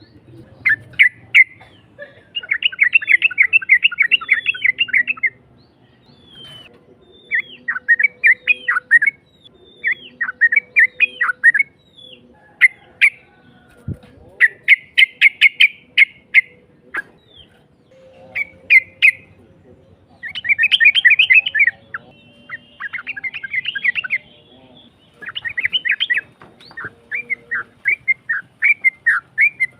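Yellow-vented bulbul (trucukan) singing a harsh, bubbling song. It comes in repeated phrases of rapid chattering notes, some drawn out into long runs lasting a few seconds, with short pauses between.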